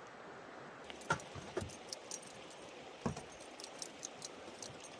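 Camp coffee gear being handled: small metallic clinks and light knocks, with three louder knocks about a second, a second and a half, and three seconds in. Under them is the steady rush of a running creek.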